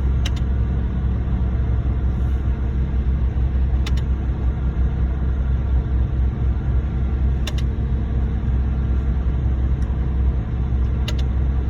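Concrete pump truck working during a pour: a heavy diesel engine running steadily under load, with a sharp knock about every three and a half seconds as the pump changes stroke.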